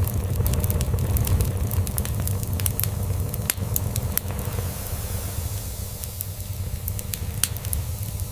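Wood fire in a fireplace crackling, with sharp pops coming thick in the first half and sparser later, over the low, steady rumble of a cat purring.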